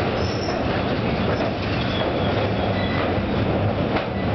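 Express passenger train running across a steel truss bridge, heard from the carriage window: a steady rumble of wheels on rails with a few faint clicks.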